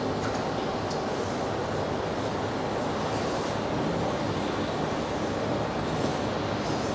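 Xingyi 820RC remote-controlled concrete floor grinder running with a steady mechanical noise, a few faint clicks over it.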